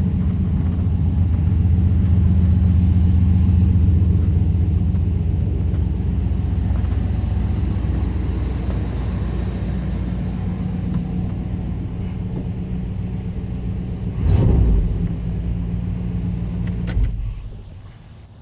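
1989 Chevy K1500 pickup's engine running steadily at idle with a low hum, shortly after a cold start. There is a brief louder surge about fourteen seconds in, and the engine sound stops about seventeen seconds in.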